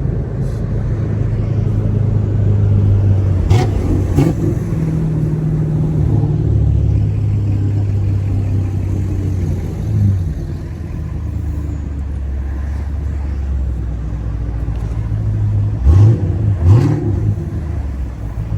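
Chevrolet Camaro SS 1LE's naturally aspirated 6.2-litre V8 running at low revs while cruising, its steady drone changing pitch in steps a few times. Near the end come two short, loud rising revs.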